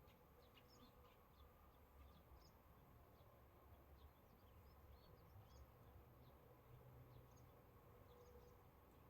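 Near silence: faint outdoor ambience with many short, high chirps scattered throughout over a low, steady rumble.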